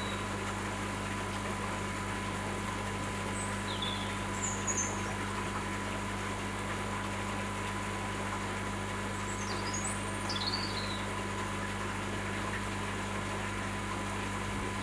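Steady low hum, with a few short high bird chirps about four seconds in and again near ten seconds.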